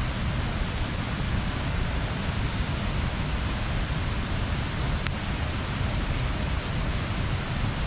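Bonfire burning: a steady rushing noise with a couple of sharp crackles, about three and five seconds in.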